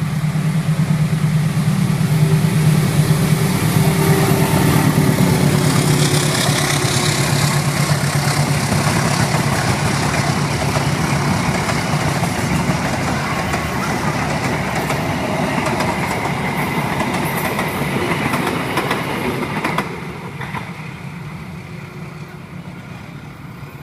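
Indonesian passenger train passing close on the rails: a diesel locomotive's engine hum as it comes by, then the coaches rolling past with a dense wheel-on-rail rumble. About 20 s in the sound drops suddenly, and the train is heard fainter as it recedes.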